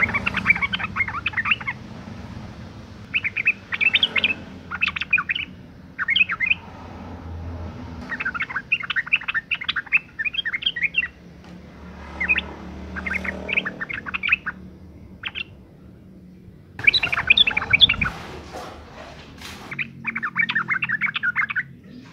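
Female yellow-vented bulbul (trucukan) giving its excited breeding-season calls: bouts of rapid, scratchy chattering notes, each about half a second to three seconds long, repeated with short pauses.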